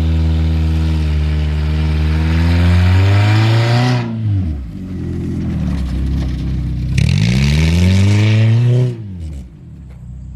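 Honda CR-V engine revving hard under throttle. It is held high for about four seconds, dips, then revs up again and holds before dropping back toward idle near the end.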